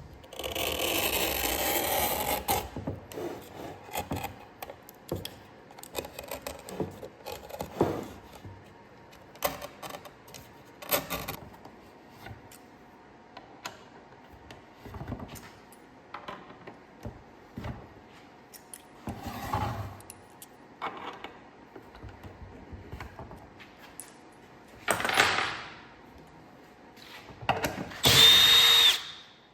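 Workshop handling sounds: scattered clicks and knocks, with a few short bursts of a small power tool running. The last burst lasts about a second and a half near the end and carries a steady whine.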